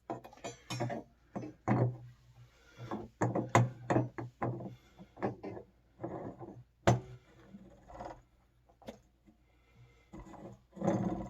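Irregular clicks and knocks of hard parts being handled while a new gasket is fitted to an electric water heater element, with one sharper knock about seven seconds in and a longer scraping rustle near the end.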